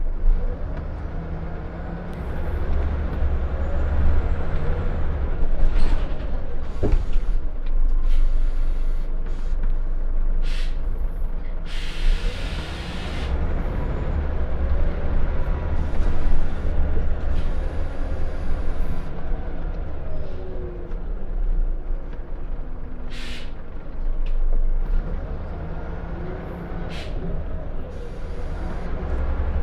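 Scania L94UB single-deck bus under way, heard from inside: its diesel engine runs with a steady low rumble, rising and falling in pitch as the bus speeds up and slows. Air from the brake system hisses briefly several times, with one longer hiss about twelve seconds in.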